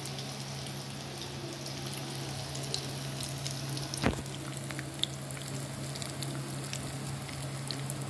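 Shami kababs shallow-frying in hot oil in a pan: a steady sizzle with small crackles, over a steady low hum. A single sharp click stands out about four seconds in.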